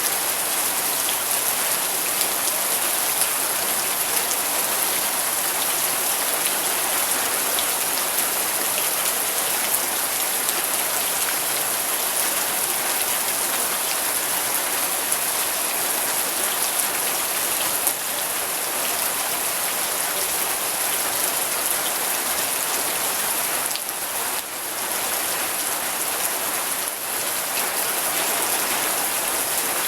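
Steady rain falling, a dense hiss of many small drops pattering on a surface.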